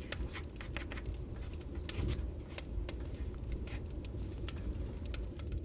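Rain-and-fireplace ambience: a steady low rumble with scattered sharp crackles and pops from the fire.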